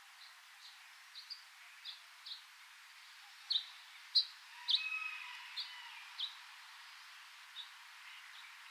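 Birds chirping in a rainforest: a string of short, high chirps, loudest around the middle, with a brief lower whistled phrase mixed in about halfway through.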